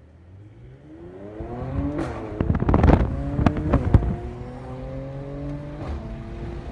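Mercedes-AMG C43's engine accelerating hard, its note rising, with a burst of sharp exhaust crackles and pops in the middle, then pulling on more steadily with another gear change near the end.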